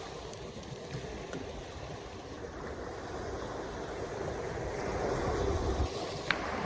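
Steady wash of wind and water, growing a little louder toward the end, with one short sharp click about six seconds in.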